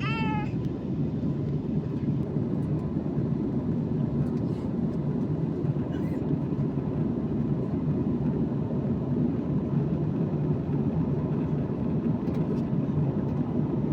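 Steady low rumble inside an airliner's cabin: engine and airflow noise that holds evenly throughout.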